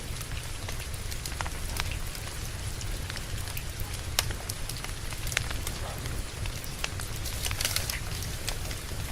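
Wood fire crackling with scattered sharp pops over steady rain, with a low rumble underneath.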